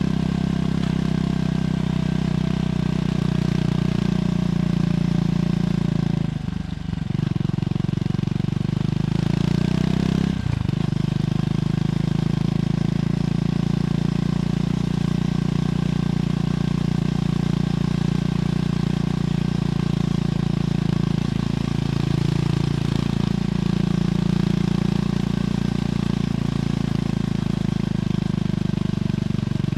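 Triumph Scrambler 400X's single-cylinder engine running through its stock exhaust, a steady low note with two brief dips, about six and a half and ten and a half seconds in.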